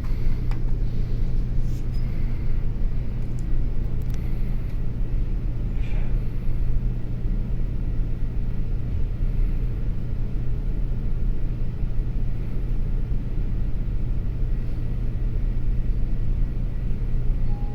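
Steady low drone of a large car ferry's engines and machinery, with a constant deep hum and an even rumble.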